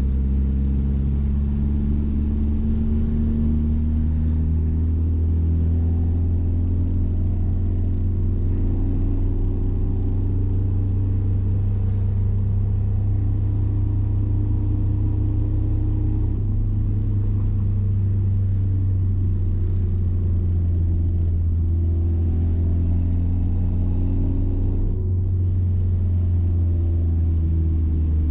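Mazda B-Series pickup's engine, fed by a Holley Sniper throttle-body EFI, running steadily under way with a deep, constant rumble. Its pitch drifts gently up and down with road speed.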